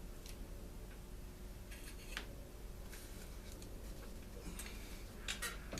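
Light, irregular clicks and taps of small metal and plastic engine parts and tools being handled during a teardown, over a steady low hum.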